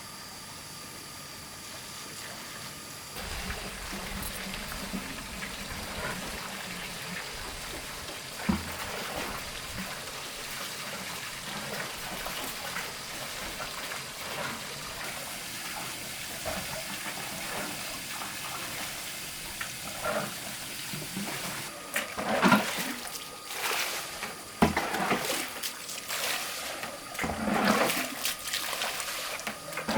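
Water running and trickling steadily, with a string of louder splashes in the last ten seconds.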